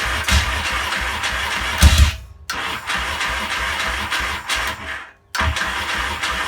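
Yamaha XS650 parallel-twin being cranked on its electric starter in three bursts, with short pauses about two and five seconds in. The engine turns over with a few heavy thuds, the loudest just before the first pause, but does not catch. It is struggling to start, which the owner puts down to the carburettor jetting.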